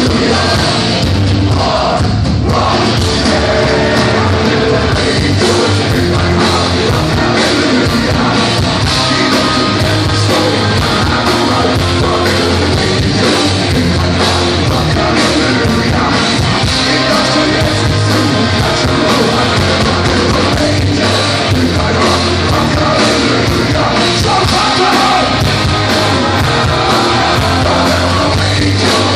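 Heavy metal band playing live at full volume: distorted guitars, bass and rapid drum hits, with a voice singing and yelling over them, as heard from the crowd.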